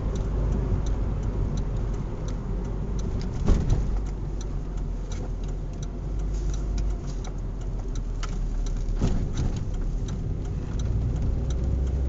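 Car engine and road noise heard from inside a moving car, a steady low rumble, with a light regular ticking over it and a single thump about three and a half seconds in.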